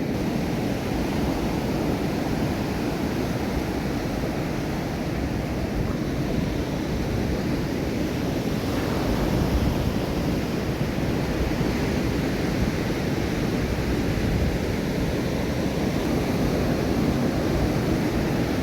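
Ocean surf washing onto the beach, a steady rushing noise that swells a little midway, with wind on the microphone.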